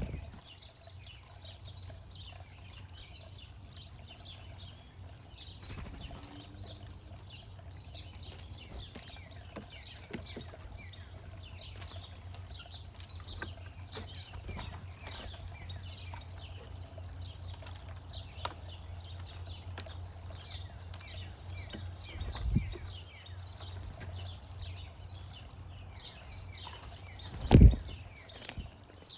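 Backyard songbirds chirping busily, with many short calls throughout over a steady low hum. Two dull thumps break in, the louder one near the end.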